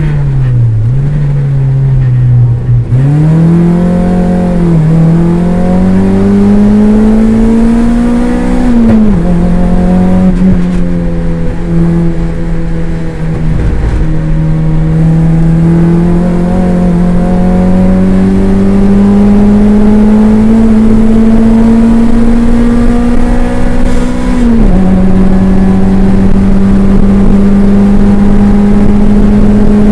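Toyota MR2 race car engine heard from inside the cabin, revs falling under braking and downshifts in the first few seconds, then climbing steadily in long pulls, with upshifts dropping the revs about nine seconds in and again about 24 seconds in.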